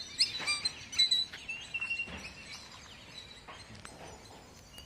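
Small birds chirping in short high calls, busiest in the first second, with one held whistled note near the middle, over faint outdoor background noise.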